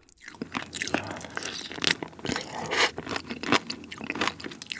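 Close-miked chewing of spicy mala steamed monkfish (agujjim): a run of short, crunchy bites one after another.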